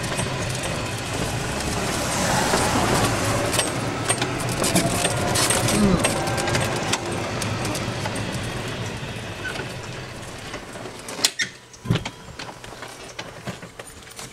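Road and wind noise from a moving vehicle, with many small rattles and clicks. It dies down about ten seconds in, leaving a couple of sharp knocks.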